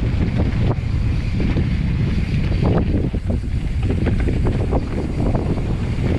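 Wind buffeting the camera microphone on a fast mountain-bike descent, with the tyres rumbling over the dirt trail and scattered short knocks and rattles from the bike over rough ground.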